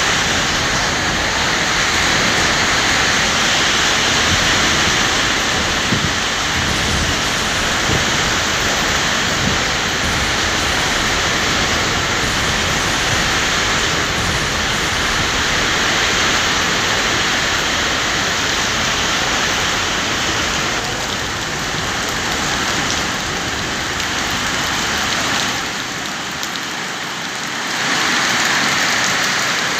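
Steady rain falling as a continuous hiss. It eases for a couple of seconds about 26 seconds in, then picks up again.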